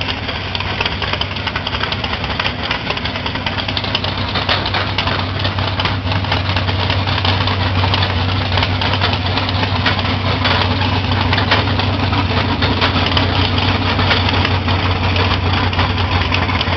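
Big-block Ford V8 monster truck engine running steadily and loud, a low drone that grows a little louder over the first several seconds and then holds.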